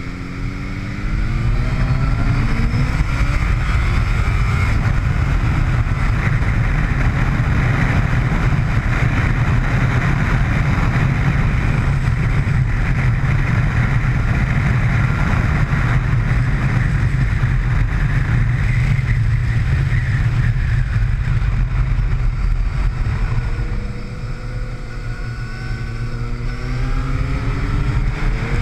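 Motorcycle engine accelerating hard on track, its pitch rising repeatedly as it pulls through the gears, under heavy wind noise at speed. The rising engine note stands out in the first second or two and again in the last few seconds; in between, wind and engine noise run steady.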